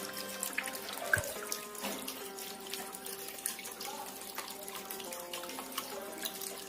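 Water from a small pump-fed tabletop waterfall fountain trickling and splashing steadily, with a sharp knock about a second in.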